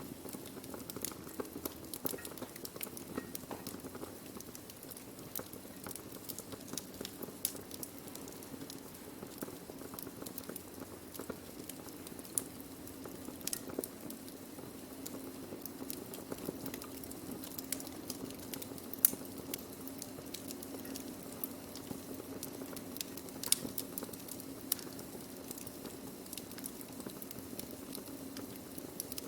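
Burning wood crackling: irregular sharp pops and snaps over a steady low hum, with a couple of louder pops about two-thirds of the way through and near the end.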